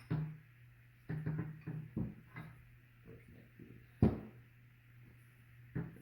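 A string of clunks and knocks from leaf-spring and bushing parts being handled and set in place, the loudest about four seconds in, over a steady low hum.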